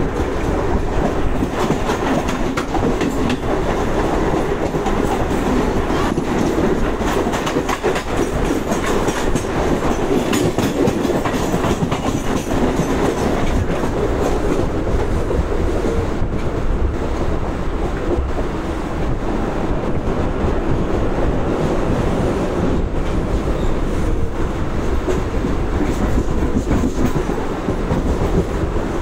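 Mumbai suburban EMU local train running along the line, heard from its open doorway: a steady rumble of wheels on rail, with frequent clicks and clatter as the wheels cross rail joints.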